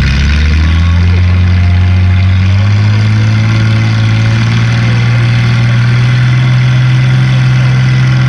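Youth-class pulling tractor's engine running hard under load as it drags the weight sled, its pitch climbing over the first few seconds and then holding steady.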